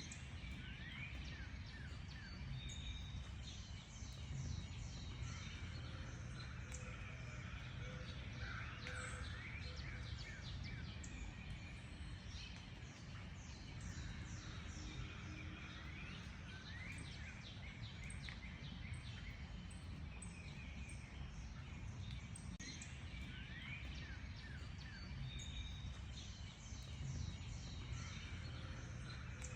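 Several wild birds chirping and singing, with frequent short, quick rising notes overlapping throughout, over a steady low rumble.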